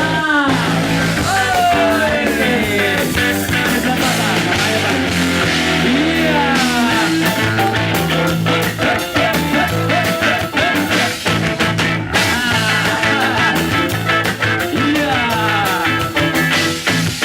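Live band playing an upbeat dangdut-style song, with a steady drum beat, bass notes and a lead melody that slides up and down in pitch.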